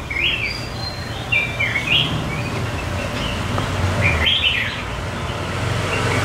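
Outdoor birdsong: short chirping phrases in three bouts, near the start, around one and a half seconds in and about four seconds in, over a steady low rumble.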